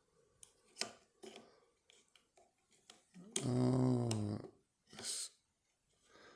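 Small metallic clicks and taps of picking tools working inside a lever padlock, then a loud wordless groan and a breathy exhale from the picker.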